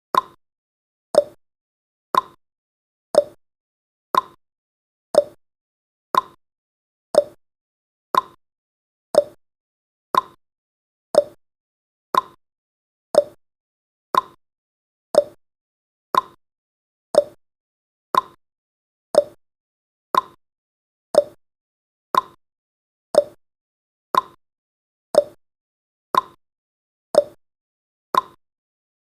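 Countdown timer's tick sound effect: one short, sharp tick every second, evenly paced.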